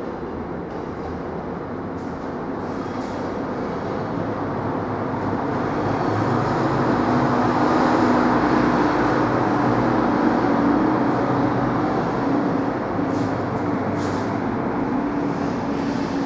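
Train running on the rails. Its rumble swells to a peak about halfway through, with a steady low hum, then eases off a little.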